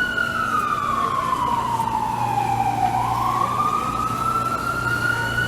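Emergency vehicle siren wailing: one slow sweep that falls in pitch for about three seconds, then rises back again.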